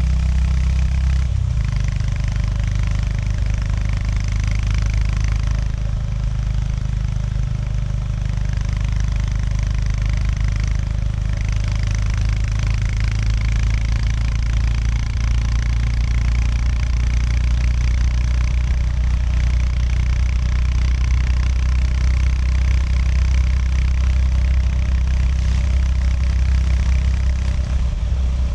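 Honda GB350S's single-cylinder engine running steadily while riding, its note shifting about a second and a half in, then holding an even pitch.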